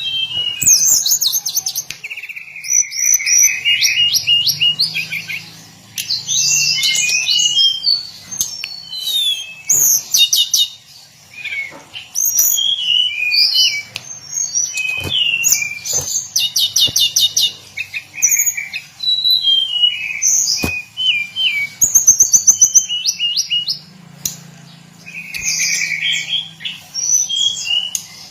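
Hill blue flycatcher singing a long, varied song of quick trills, rising and falling whistles and slurred notes in rapid phrases with short pauses. A few sharp clicks cut in between phrases.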